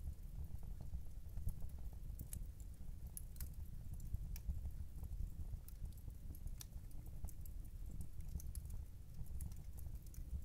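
Wood fire in a fireplace crackling, with irregular sharp pops and snaps over a low steady rumble. A clock ticks in the background.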